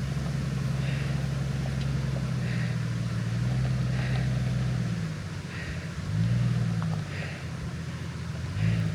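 Jeep Cherokee XJ engine running at low speed on a rough mountain trail, its note dipping and picking up again about two-thirds of the way through. A faint short chirp repeats about every second and a half.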